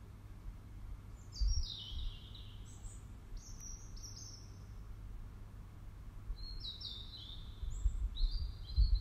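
Birdsong: about four short phrases of high notes, each stepping downward in pitch, over a low rumble that grows louder near the end.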